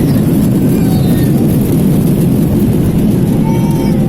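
Steady, loud rumble of an airliner landing, heard as engine and runway noise, with faint voices in the background.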